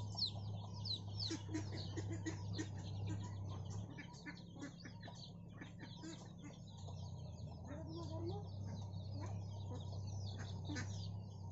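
A flock of 18-day-old chicks peeping continuously, many short high falling calls overlapping one another. A steady low hum runs underneath and dips for a few seconds midway.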